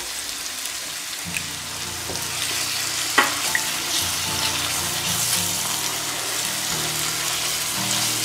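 Masala paste with grated paneer sizzling in a frying pan as a little water is poured in, then stirred with a wooden spatula. There is a sharp tap of the spatula about three seconds in.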